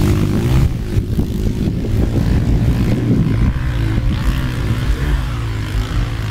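Motocross motorcycle engines running and revving, their pitch rising and falling, over a steady low rumble.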